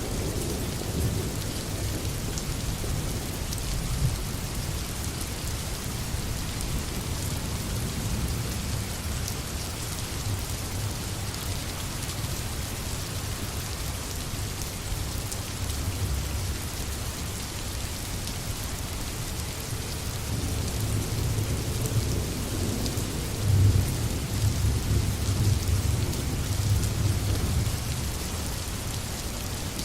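Steady rain falling, with a low rumble of thunder underneath that swells in the second half and is loudest about two-thirds of the way through.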